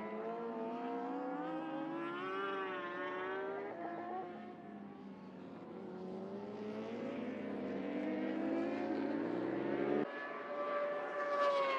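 Superbike racing motorcycles at full throttle, the engine pitch climbing through the gears and dropping at each shift. About ten seconds in the sound cuts abruptly to another bike, whose pitch falls away as it passes.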